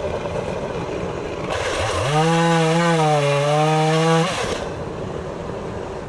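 Stihl MS 170 two-stroke chainsaw running at low speed, then revving up to full throttle about two seconds in. It holds high revs for about two seconds with a slightly wavering pitch, then drops back to idle.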